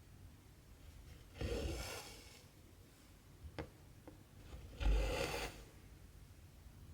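Cotton embroidery thread pulled through 14-count cross-stitch fabric, a rasping drag of about a second, twice, with a couple of light needle clicks in between.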